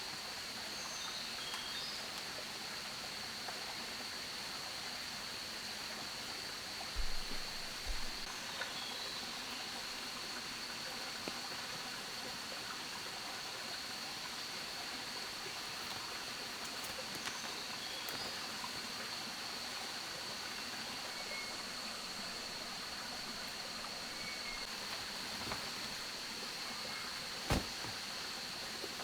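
Steady jungle ambience: a constant rush like a running stream under a continuous high insect drone, with a few faint chirps. Two dull thumps come about seven and eight seconds in, and a sharp knock comes near the end.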